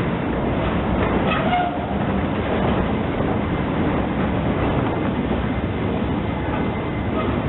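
A train rolling along the track, a steady rumble of wheels on rails with some clickety-clack and a brief faint wheel squeal about a second and a half in.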